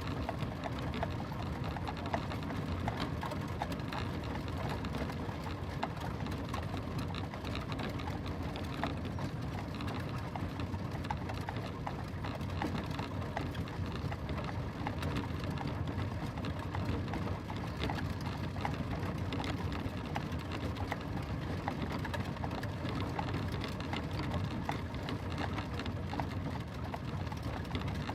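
Horse-drawn carriage rolling steadily: a continuous low rumble of wheels with a dense, fast rattle and clicking over it.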